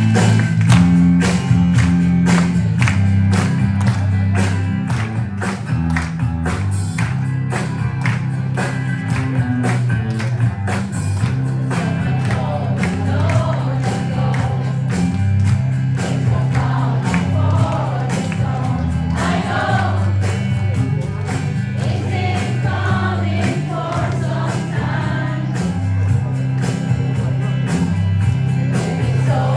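Recorded song with a steady beat and bass line, and a group of voices singing along, most clearly from about twelve seconds in.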